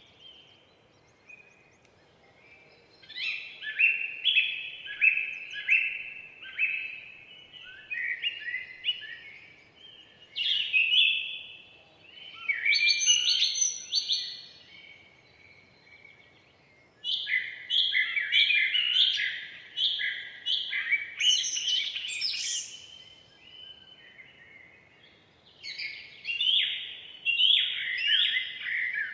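Songbirds singing in a forest: phrases of rapid, short, falling notes, each phrase a few seconds long, repeating with brief pauses between them.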